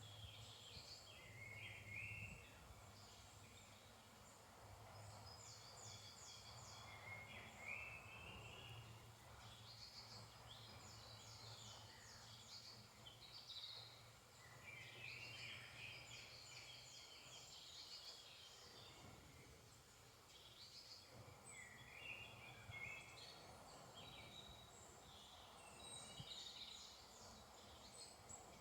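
A faint woodland dawn chorus: several songbirds singing at once, with overlapping quick trills and rising chirps.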